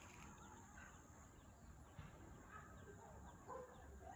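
Faint, scattered bird calls, a few short chirps a second or so apart, over low background noise.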